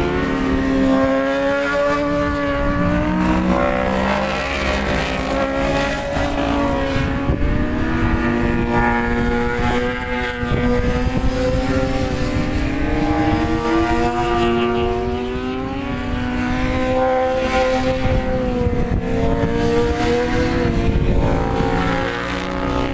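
Race motorcycle engine running hard on track, its note rising and falling repeatedly as it revs and changes gear, with a dip in revs about ten seconds in and again near the end. A low wind rumble sits under the engine.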